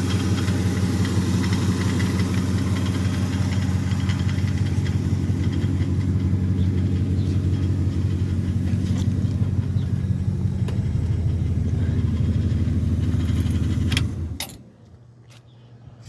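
A 1966 Ford F100's 352 V8 idling steadily with its air-conditioning compressor running. The engine sound stops suddenly about fourteen seconds in, followed by a few sharp clicks.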